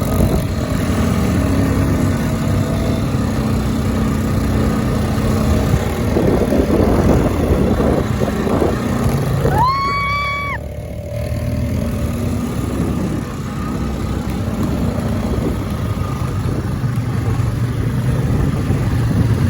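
Quad bike engine running steadily under way, with noisy rumble from riding. About halfway through, a single high, held tone sounds for about a second.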